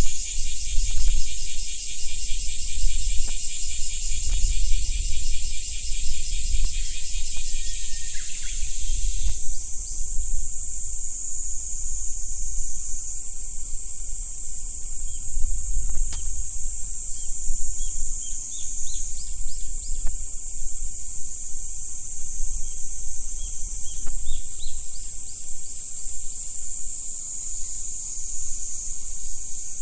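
A chorus of insects keeps up a steady, very high-pitched buzz, with a second, lower pulsing trill that stops about a third of the way through. Faint short bird chirps come in the latter half over a low rumble.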